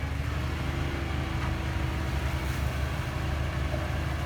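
Heavy diesel engine of earthmoving machinery running steadily, its pitch rising slightly in the first half second and then holding.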